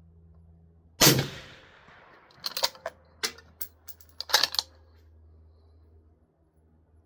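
Accuracy International AT bolt-action rifle firing one shot, its report trailing off over about a second. A second or so later comes a quick run of sharp metallic clicks and clacks as the bolt is worked to eject the case and chamber the next round from the steel AW magazine.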